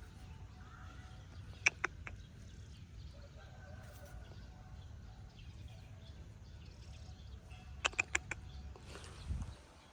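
Small sharp clicks or taps of hard objects, three close together about two seconds in and a quick run of five about eight seconds in, over a low steady hum.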